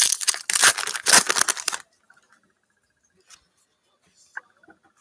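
A trading-card pack wrapper being ripped open and crinkled, a dense crackling burst in the first two seconds, then only light handling.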